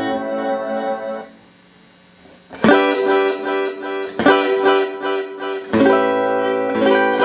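Clean electric guitar through a Boss DD-8 digital delay pedal into two Roland JC-120 amps: a ringing chord fades away, about a second of near-quiet, then three strummed chords about a second and a half apart, each left to ring out.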